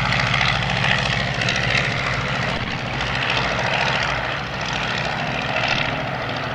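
Propeller airplane engine running steadily: a low, even drone with a rushing noise over it, easing slightly about halfway through.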